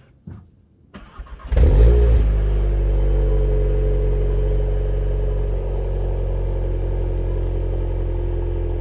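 VW Golf R Variant's turbocharged 2.0-litre four-cylinder cold-starting through its stock exhaust: a brief crank about a second in, a loud flare of revs as it catches, then a steady cold idle.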